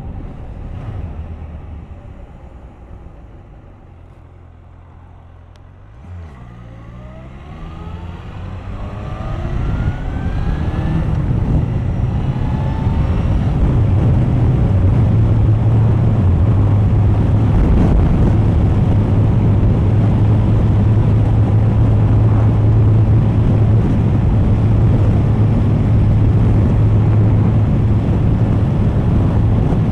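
Suzuki GSX1250FA motorcycle's inline-four engine, which goes quiet as the bike slows. From about six seconds in it accelerates, the engine note rising in several climbs through the gear changes. It then settles into a steady cruise with wind rush on the microphone.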